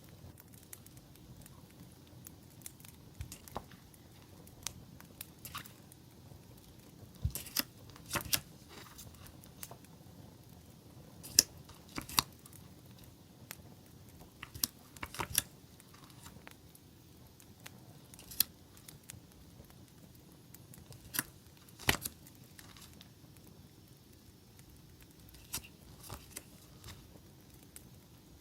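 Campfire crackling with scattered sharp pops over a low steady rumble, mixed with the soft rustle of paper and sticker sheets being handled.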